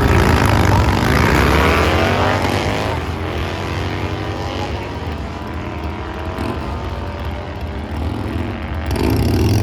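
A drag-racing engine at full throttle, its pitch sweeping up and bending over the first few seconds, then slowly fading as it runs down the strip. Engine noise swells louder again near the end.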